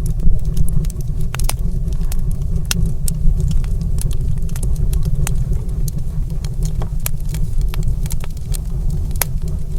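Wood fire burning in a stone fireplace, crackling with sharp, irregular pops and snaps over a steady low rumble.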